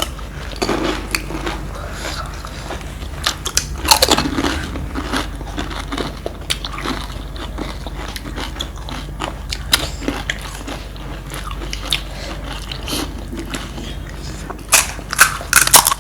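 Crunching and chewing of crisp panipuri and chatpate in the mouth: scattered crunches with a louder cluster about four seconds in, then a quick run of crisp crunches near the end.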